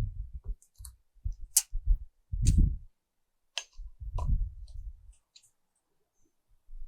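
A metal tape measure being drawn out and handled against a walk-in cooler door: scattered sharp clicks and dull knocks at irregular moments, dying away after about five seconds.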